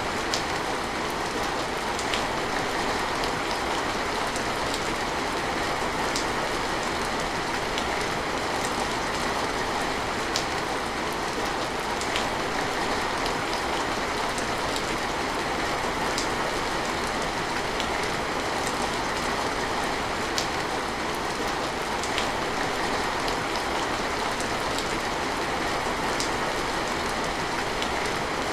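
Steady rain falling, an even hiss with scattered sharp ticks of single drops hitting a surface.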